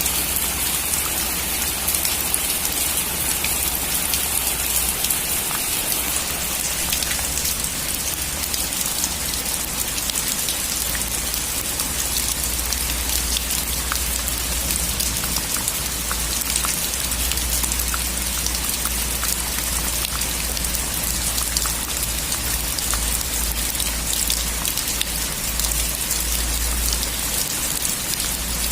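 Steady heavy rain falling on a metal roof, with many separate drop ticks over a continuous hiss and a low steady rumble beneath.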